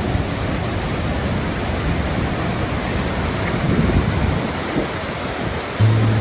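Steady rushing noise of Låtefossen, a large twin-stream waterfall in full flow. A low note of background music comes in just before the end.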